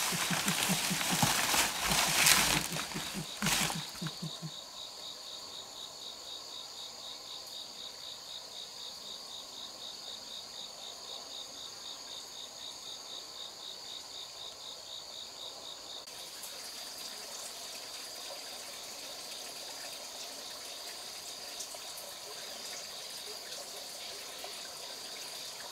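Insects chirring steadily in a high, fast-pulsing trill. For the first few seconds a louder rustling noise covers it.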